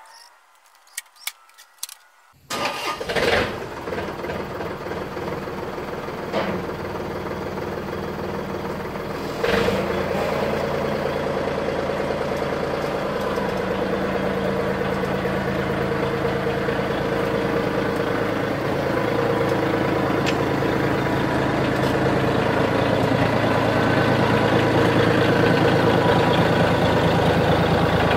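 John Deere 4200 compact tractor's diesel engine cranked and started after a few clicks, then running steadily at idle. About ten seconds in it steps up to a louder, faster speed and keeps running.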